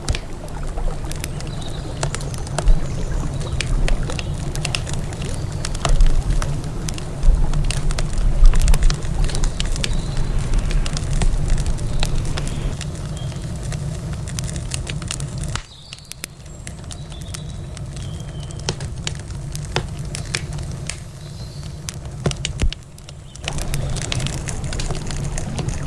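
Wood campfire crackling, with irregular sharp snaps and pops over a steady low rush of river water.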